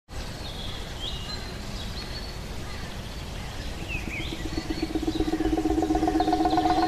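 Birds chirping over outdoor background noise. From about four seconds in, a steady droning tone fades in and grows louder.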